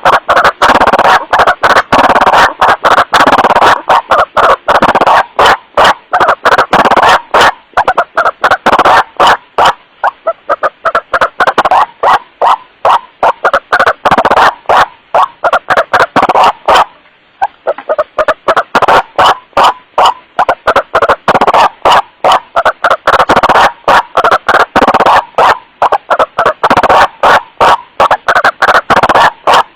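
White-breasted waterhen's 'wak-wak' calls from a bird-luring recording, played back very loud and clipping. A rapid, unbroken string of harsh calls, with one brief break a little past halfway.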